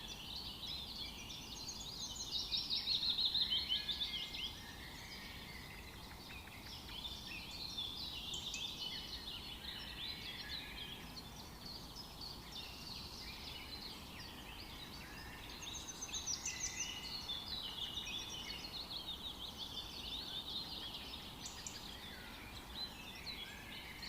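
A chorus of many small birds chirping and trilling over a low outdoor background hiss. It is busiest about three seconds in and again about two-thirds of the way through.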